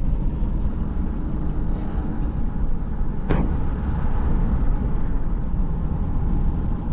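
Pickup truck towing a loaded trailer at highway speed: a steady low rumble of engine and road noise, with a single sharp click about three seconds in.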